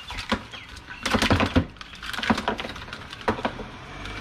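Small hard plastic items and cables being handled and sorted: a run of irregular clicks and light clacks, busiest about a second in.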